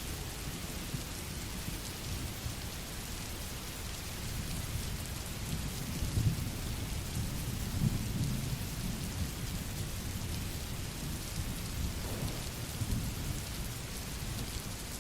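Steady rainfall, with a low rumble of distant thunder that swells about a third of the way in and fades.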